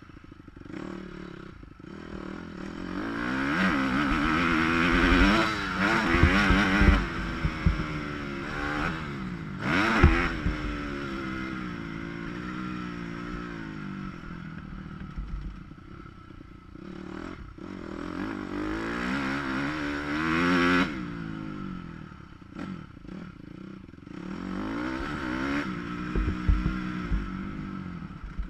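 Motocross bike engine revving up and dropping back again and again, surging hard several times, heard muffled through a GoPro waterproof housing. Sharp knocks and clatter come in among the revs, the loudest about ten seconds in.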